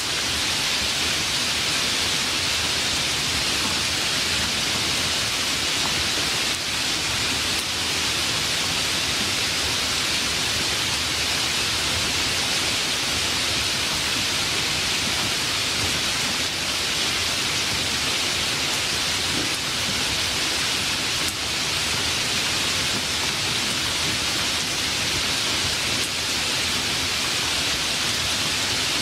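Steady heavy rain falling, an even hiss that does not rise or fall.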